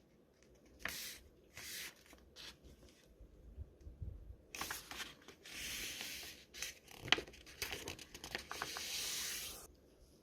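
A square sheet of origami paper rustling and crinkling as it is folded in half and the crease is pressed down. Brief rustles come first, then from about four and a half seconds in a longer stretch of paper rubbing and crackling.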